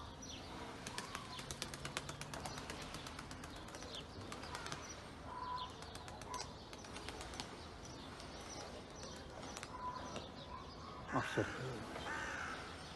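Birds outdoors: a quick run of sharp clicks in the first few seconds, then scattered chirps and short whistled notes, with a louder falling sound near the end.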